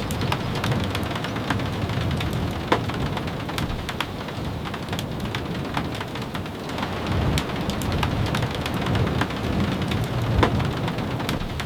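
Steady rain with a low rumble underneath and many scattered sharp taps and clicks.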